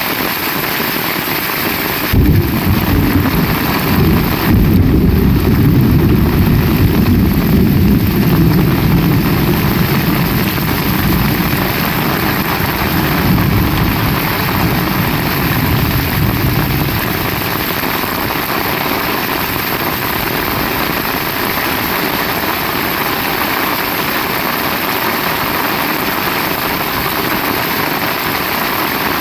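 Heavy rain falling steadily. About two seconds in, thunder breaks sharply and rolls on as a low rumble for some fifteen seconds before fading.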